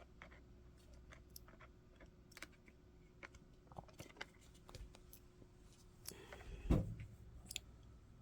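Faint, scattered clicks and light taps of hands and an oiler working over a vintage Singer 111W sewing machine's joints and screw holes, with one louder knock about seven seconds in.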